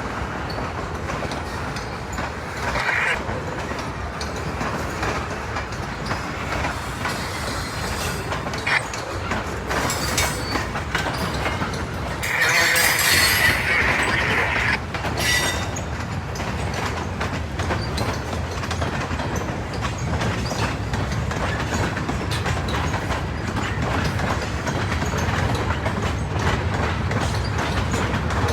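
Freight train rolling past, its wheels clicking steadily over the rail joints. Its wheels squeal briefly about three seconds in and again for a couple of seconds about twelve seconds in.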